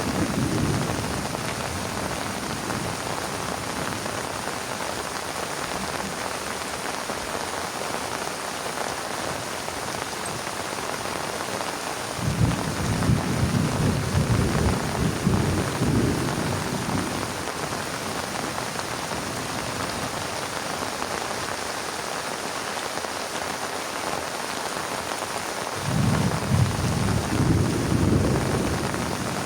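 Heavy rain falling steadily, with thunder rumbling twice: once for several seconds starting a little before halfway, and again starting near the end.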